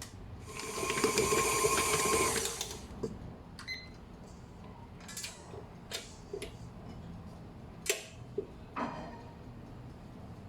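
A small electric motor whirs steadily for about two seconds, then stops. After it come a few scattered clicks and knocks, the loudest near the end.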